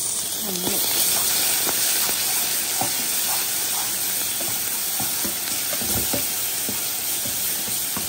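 Onion, sofrito and cilantro sizzling steadily in melted butter in a frying pan, with a few light knocks scattered through it.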